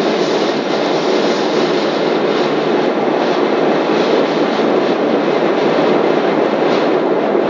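Steady cabin noise of a Boeing 777 in flight: engine and airflow noise heard from inside the cabin, loud and even throughout.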